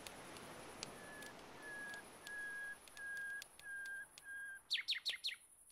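A bird singing: a run of six steady whistled notes at one pitch, then a quick burst of sharply falling chirps near the end. Scattered sharp clicks and a steady high hiss lie under it.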